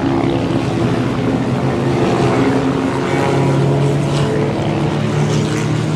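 Propeller airplane's piston engine droning steadily, its pitch shifting slightly.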